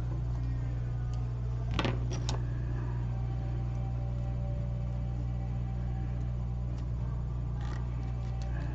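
Steady low electrical hum of repair-bench equipment, with a few light clicks and taps of small tools and phone parts about two seconds in and again near the end as a phone is reassembled.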